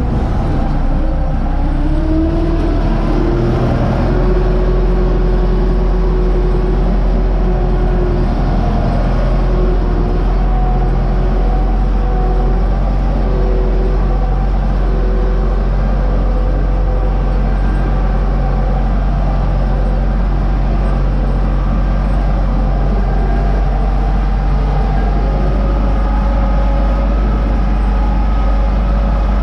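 U650 tractor's four-cylinder diesel engine running steadily under a strong low hum, its pitch briefly rising about two to four seconds in.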